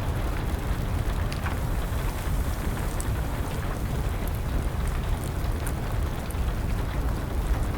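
Steady rain mixed with a crackling wood fire: a constant low rumble and hiss with small, scattered pops and crackles.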